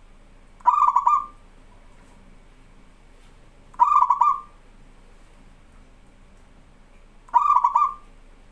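Zebra dove (perkutut) cooing: three short, rippling coo phrases about three and a half seconds apart.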